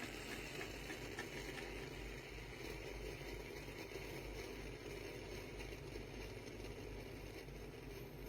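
Compact espresso machine running, a steady low hum with a hiss that eases off slightly.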